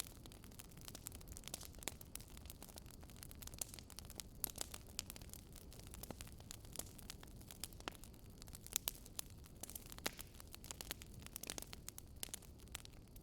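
Wood fire crackling in a fireplace: many irregular sharp pops and snaps over a steady low noise of the burning fire.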